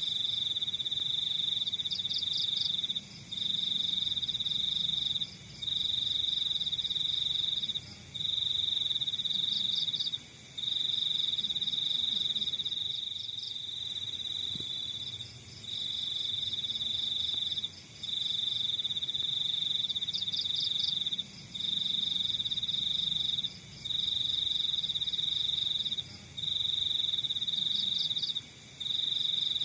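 Crickets trilling: one loud, high, steady trill in runs of about two seconds broken by brief pauses, with fainter pulsed chirping of other insects above it.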